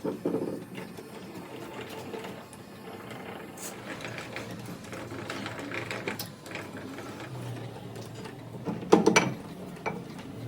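Metal workshop work: irregular mechanical clicking and clatter, with a cluster of loud metallic knocks about nine seconds in.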